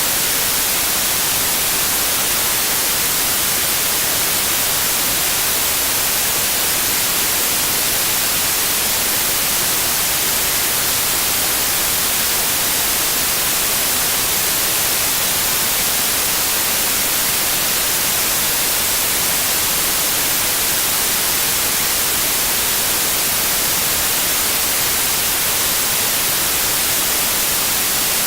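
Steady synthetic white noise: an even, unchanging hiss.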